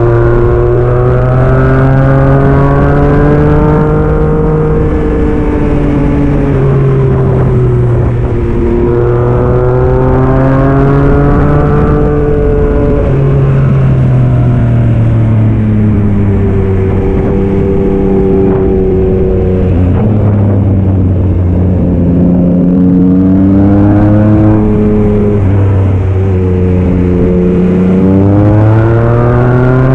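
Yamaha MT-09 SP's three-cylinder engine, breathing through a Black Widow aftermarket exhaust, pulling hard through the gears. The pitch climbs, drops briefly at each shift or roll-off, and climbs again, several times over.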